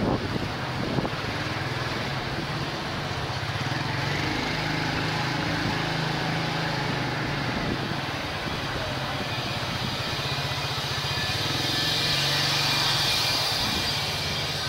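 Motorbike engine running steadily amid the din of surrounding motorcycle traffic, with a hiss that swells near the end.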